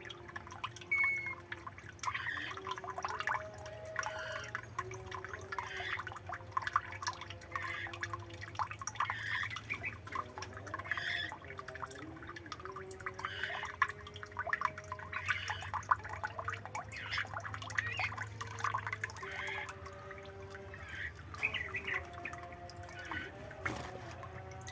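Aviary birds chirping over and over in short calls, with water dripping and trickling underneath.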